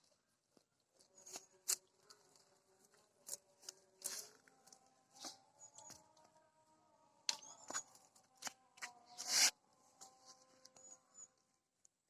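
Goat cropping and chewing green grass: irregular crisp snips and tearing crunches, a few at a time with short gaps.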